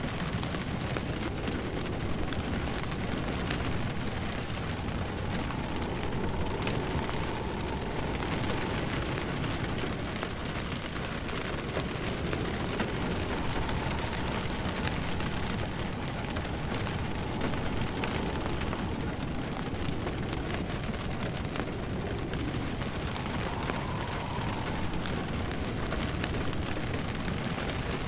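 Steady rain mixed with the crackle and small pops of a wood fire burning in a fireplace.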